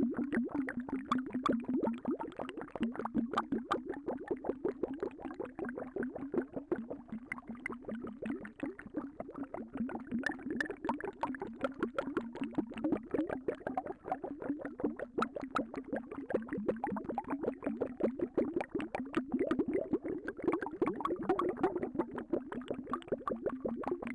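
Liquid bubbling steadily, a dense, continuous stream of small pops like boiling water.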